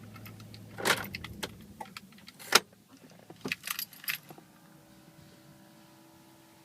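Keys jangling and clicking in several short bursts. A low steady electrical hum, the noise of the 350Z's faulty ABS module, cuts off about a second in.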